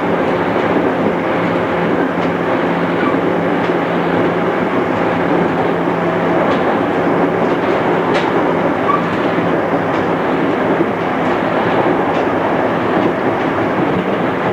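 JR East 211 series electric train running, heard from inside the passenger car: a steady rumble of wheels and running gear with a low hum under it, and scattered clicks from the wheels passing rail joints.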